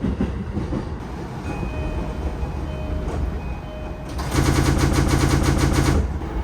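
Inside a train carriage: a steady low running rumble, with a few short electronic tones a second or two in. Then comes a loud, rapidly pulsing buzz for about two seconds.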